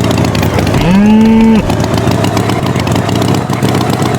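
A tractor engine running steadily, with one short bull's moo about a second in.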